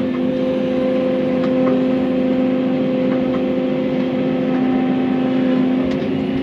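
Excavator's diesel engine running at steady revs with a held drone, with a few light knocks from the machine at work.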